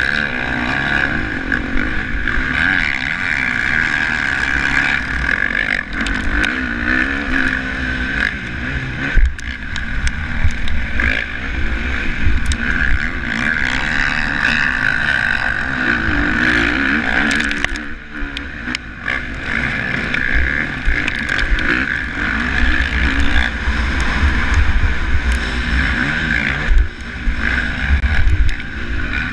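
Motocross bike engine running hard at race pace, heard from a camera mounted on the bike, with low wind rumble on the microphone. The engine note eases off briefly about 18 seconds in, then picks up again.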